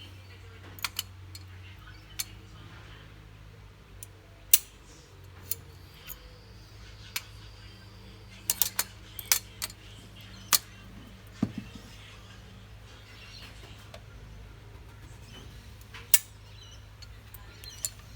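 Scattered sharp metallic clinks and taps of hand tools and parts being handled on an engine, the loudest about four and a half seconds in and a quick cluster near the middle, over a steady low hum.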